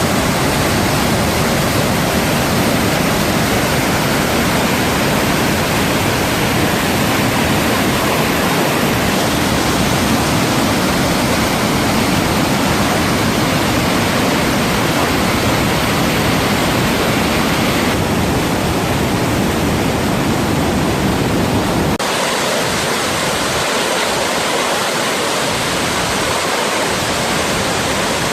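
Waterfall: a loud, steady rush of falling water. About three-quarters of the way through, the deep rumble drops away, leaving a lighter hiss.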